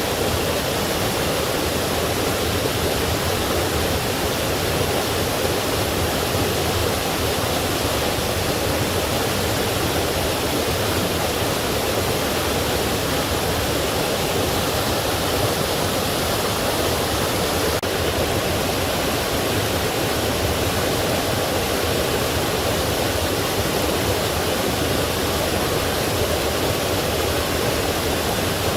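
Forest stream flowing over rocks with a small waterfall: a steady, even rush of water.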